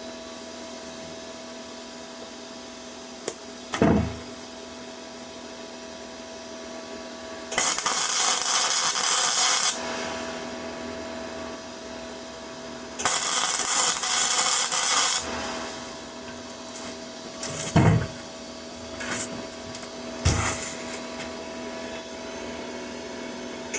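Flux-core arc welding with a Parkside PMSG 200 A1 welder: two bursts of arc crackle, each about two seconds long, over the welder's steady hum. A few short knocks come before and after the bursts.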